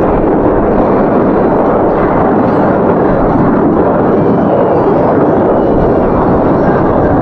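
Loud, steady jet-engine noise from Blue Angels F/A-18 Hornets flying the display.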